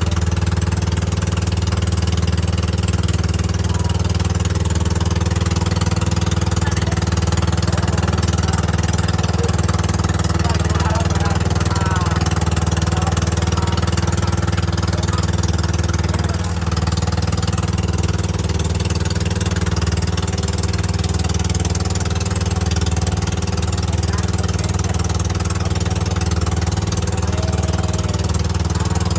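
Boat engine running steadily at a constant speed, a continuous low drone with no change in revs.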